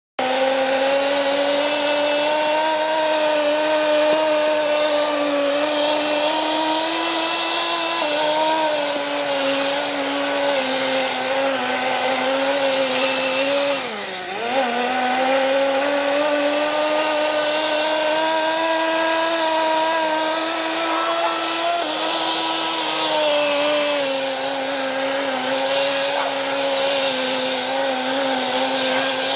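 The Blizzard Nitro's small nitro engine running at high, fairly steady revs with a high-pitched buzz. Its pitch drifts gently, then drops sharply and climbs back about halfway through.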